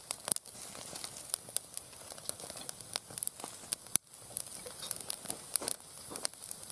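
Wood fire in a small fire stand crackling and hissing, with irregular sharp pops and one louder pop about four seconds in.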